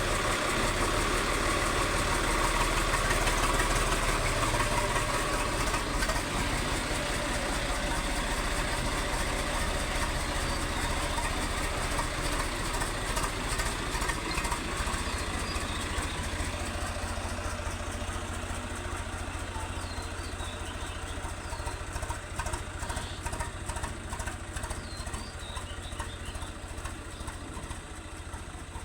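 Swaraj tractor's diesel engine running steadily, growing gradually fainter over the second half.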